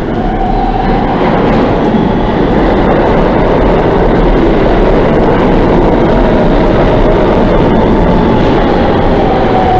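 New York City subway train running past the platform: a loud, steady rumble that grows a little about a second in, with a faint high whine near the start and again near the end.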